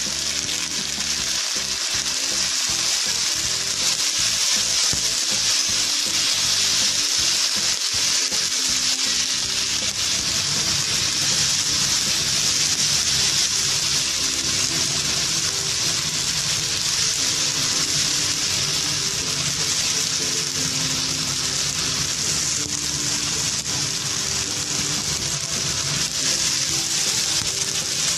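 Chicken pieces and sliced onions frying in hot oil in a karahi, a steady sizzle, while being stirred with a plastic spatula.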